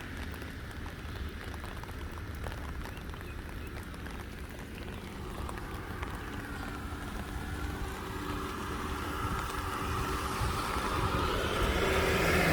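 Rain pattering over a low rumble that grows steadily louder from about halfway through. Wavering whining tones come in over the rumble as a large vehicle draws near.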